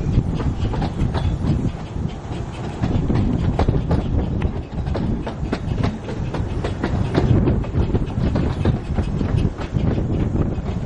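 Narrow-gauge railway train running along the track: a steady low rumble with frequent, irregular clicks and clatter from the wheels and carriages.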